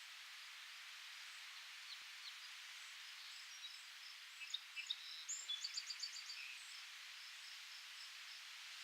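Steady, faint rustle of leaves in the wind. About halfway through, a songbird gives a quick run of short high chirps lasting a couple of seconds.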